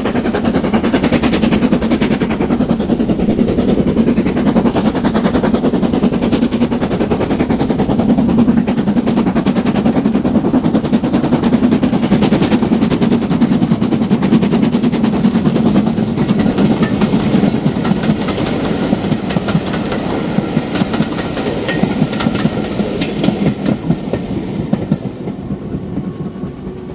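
A train passing close: a steady rumble with wheels clicking over the rail joints, dying away near the end.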